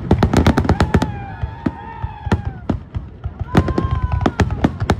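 Fireworks display: rapid volleys of sharp bangs and crackles. They thin out about a second in and build up again past the middle, with long sliding whistle-like tones in between.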